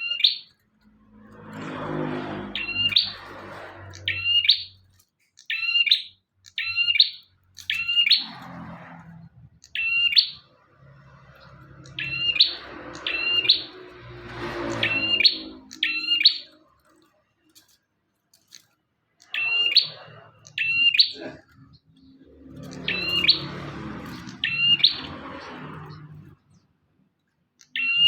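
Prinia (prenjak) calling loudly: short, sharp chirps, mostly in quick pairs, repeated every second or two. A lower rumbling noise swells and fades several times behind the calls.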